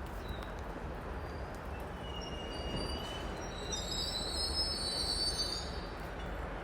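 Train wheels squealing on the rails, a high thin squeal in several tones that builds about two seconds in and is loudest near the end, over a steady low train rumble.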